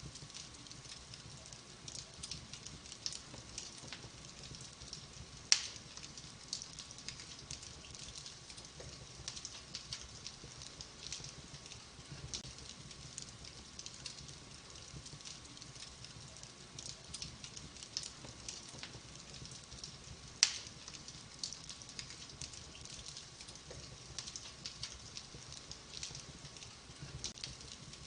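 Wood fire in a fireplace crackling, with a steady scatter of small ticks and two loud, sharp pops, about five seconds in and again about fifteen seconds later.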